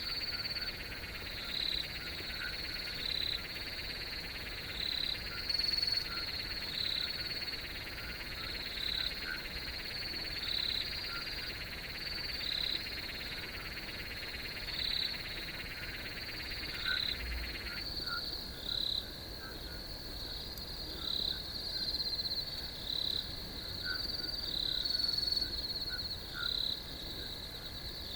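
Chorus of crickets and frogs: a steady high cricket trill with louder chirps repeating about every second and a half, over a lower continuous trill that cuts off suddenly about two-thirds of the way through.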